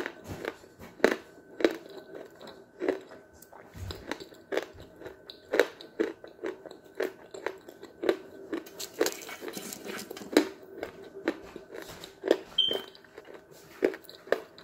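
Close-miked chewing of chalk: hard, dry pieces crunching between the teeth in sharp, regular bites about twice a second.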